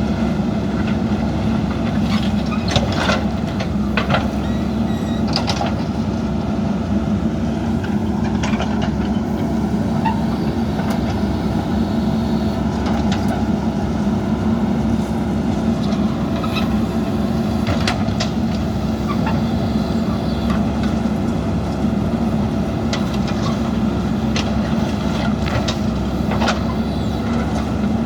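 JCB backhoe loader's diesel engine running steadily under work, with a few sharp knocks scattered through.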